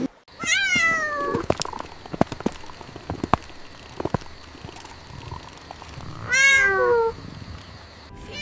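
A cat meowing twice: two long meows that fall in pitch, the first near the start and the second about six seconds in. Between them come several short, sharp clicks.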